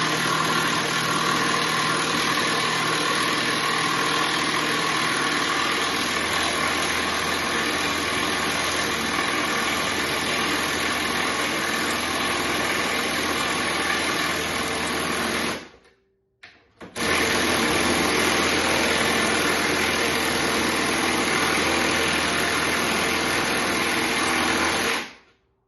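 Milwaukee M12 FUEL cordless driver running under load on a 2.0 Ah battery, driving a fastener in. It stops after about 15 seconds, then runs again for about 8 seconds, as it would when backing the fastener out, and cuts off suddenly.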